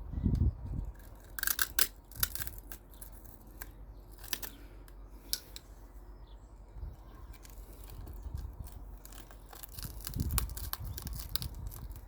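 Sharp plastic clicks, snaps and scrapes as a corroded bulb is worked loose from a car's rear light unit, scattered at first and coming thick and fast near the end, with a few dull handling bumps.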